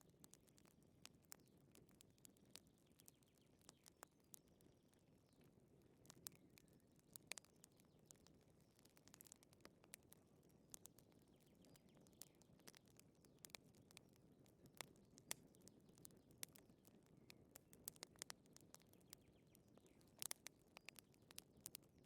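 Faint, irregular crackling and popping of a wood fire, with a soft low rumble underneath.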